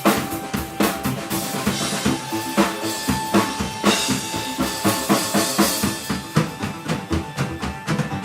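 Live band playing, with the drum kit up front: bass drum and snare hits in a steady driving beat under sustained instrument tones.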